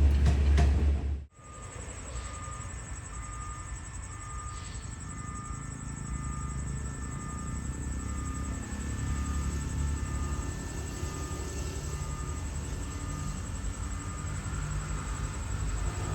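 A train's loud low rumble cuts off about a second in. It gives way to an electronic warning beep repeating about twice a second over a low background hum, and the beeps stop near the end.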